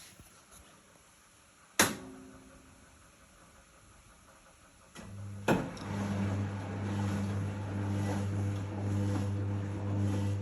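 Early-1970s Izola Superautomatic 750 S washing machine starting up: a sharp click about two seconds in, then a low electrical hum sets in a little before a second click. After that comes a steady hum with a rushing noise over it.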